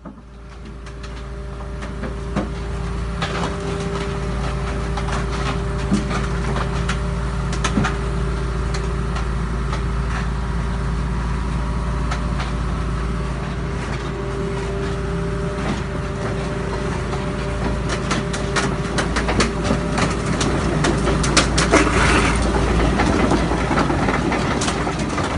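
Excavator's diesel engine running steadily, with many clicks and knocks over it that crowd together and grow loudest about twenty seconds in.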